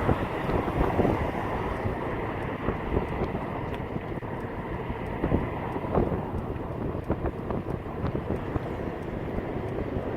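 Steady low rumble with wind buffeting the microphone, and a few small knocks scattered through it.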